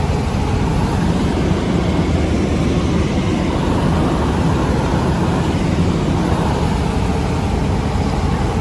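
Helicopter in flight heard from inside the cabin: a loud, steady drone of engine and rotor noise, heaviest in the low end.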